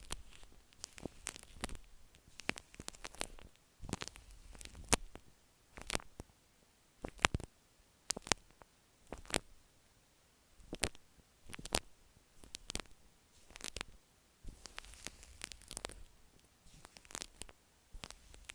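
Shaving cream foam squished and worked against an earphone microphone, making sharp crackling, squelching bursts about once a second, more densely near the end.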